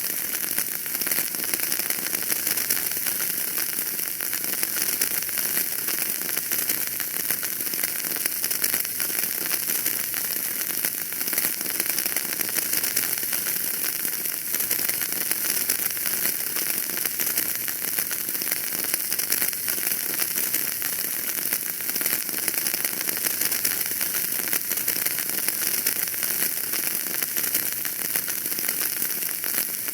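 Wood fire burning in a fireplace, with a steady, dense crackle of many small pops.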